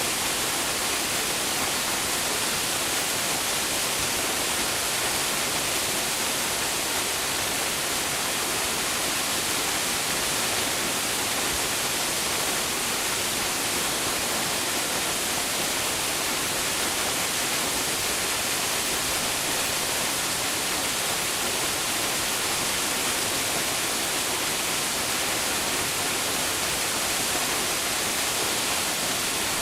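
Waterfall: water falling and splashing in a steady, even hiss, strongest in the upper frequencies.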